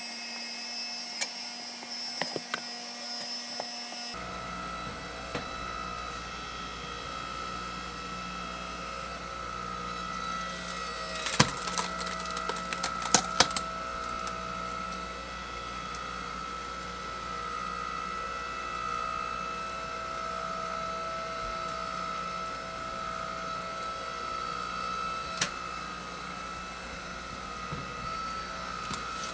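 Engine-driven hydraulic log splitter running steadily, with wood cracking and splintering as a log splits: a cluster of sharp cracks a little before halfway through and one more crack later on.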